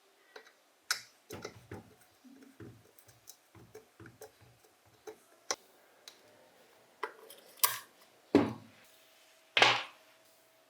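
Scattered clicks, taps and clinks of tools and metal parts being handled while a bench grinder is reassembled, with two louder knocks in the second half.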